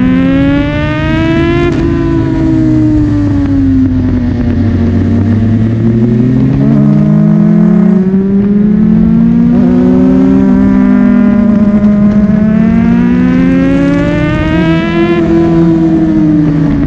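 Sports motorcycle engine running hard at high revs, its pitch climbing and falling away several times as it accelerates and backs off.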